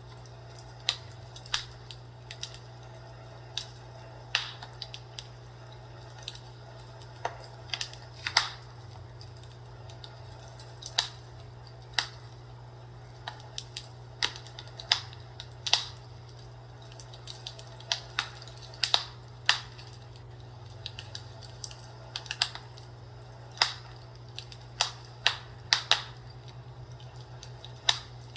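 Fireplace crackling: irregular sharp pops and snaps, one to three a second, over a steady low hum.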